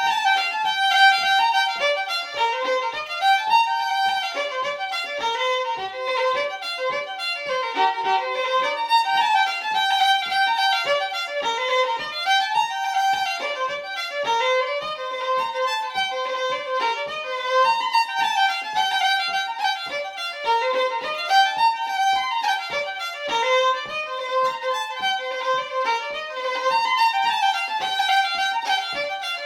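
Unaccompanied fiddle playing an Irish reel: a brisk, steady run of short bowed notes.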